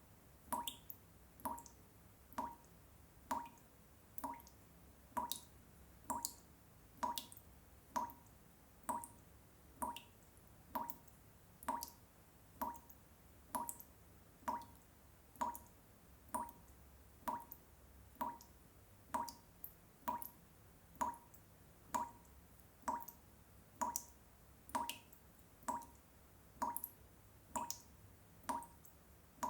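Water drops falling one by one into water, each a short plink, repeating at an even pace of about three drops every two seconds.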